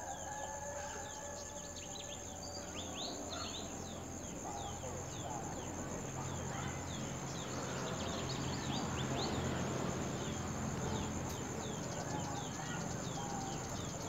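Birds chirping: many short, quick, high chirps, over a steady high-pitched ringing and a low hum.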